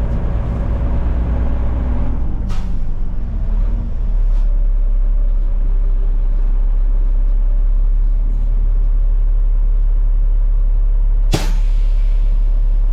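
Garbage truck's diesel engine running as the truck is parked, its note changing a few seconds in. Near the end comes a single short, sharp blast of air from the air brakes.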